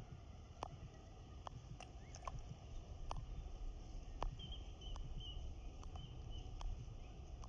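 Outdoor ambience with a low rumble, scattered sharp clicks, and a faint run of short, high chirping bird notes about halfway through.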